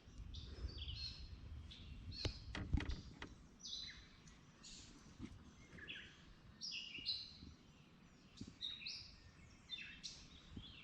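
Birds singing and chirping, many short high calls and trills one after another, with a few sharp knocks about two to three seconds in.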